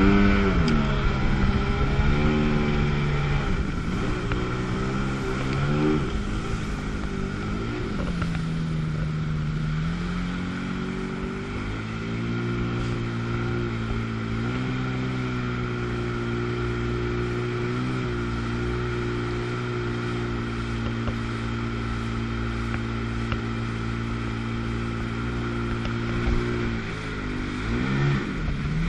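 1997 Sea-Doo GTS jet ski's 720 two-stroke twin engine running. Over the first dozen seconds its pitch rises and falls with the throttle, then it holds a steady cruising pitch, with a brief drop and pick-up near the end.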